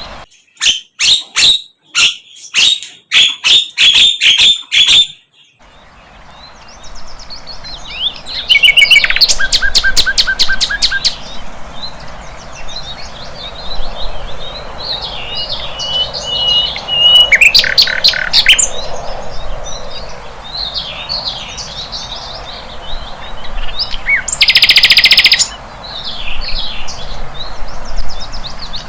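A flycatcher (sikatan londo) singing a varied song. It opens with a quick run of loud, sharp chattering notes over the first five seconds, then moves to chirps and trills with a short held whistle, and a dense buzzy trill about 25 seconds in.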